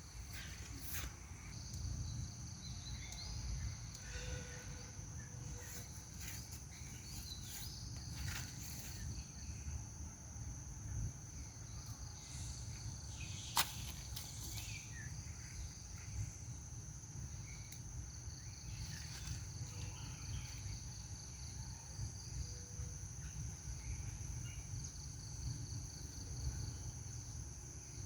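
Insects droning in a steady high buzz over a low outdoor rumble, with scattered small clicks and one sharp click about halfway through.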